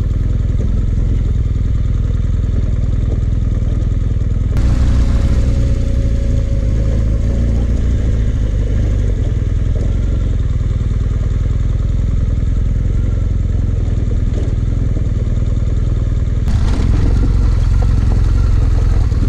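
Dual-sport motorcycle engine running steadily under way on a dirt road, a continuous low rumble. The sound changes suddenly about four and a half seconds in, and again near the end.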